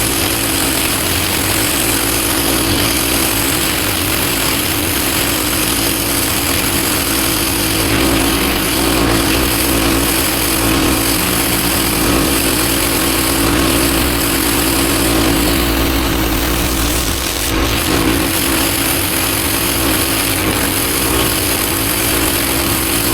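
Pressure washer running steadily, its engine humming under the hiss of the water spray.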